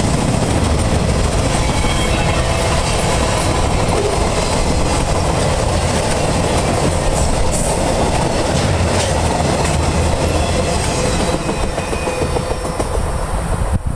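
Freight train flatcars loaded with military vehicles rolling past: a steady rumble of steel wheels on the rails with scattered knocks. It drops in level about eleven and a half seconds in as the last cars go by.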